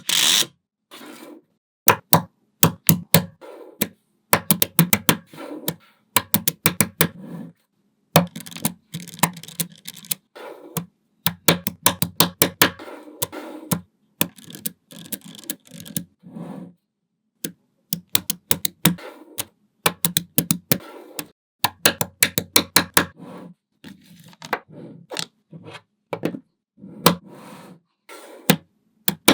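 Small magnetic balls clicking and snapping together in quick runs of sharp clicks, with softer scraping and rattling between the clicks as pieces are slid and pressed into place. The runs are broken by several short silent gaps.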